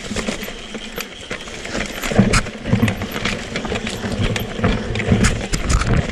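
Mountain bike rattling over rocks and roots: irregular knocks and clatter from the tyres and frame over a low rumble.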